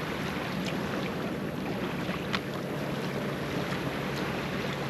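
Steady outdoor background noise with a low, even hum underneath and a few faint clicks.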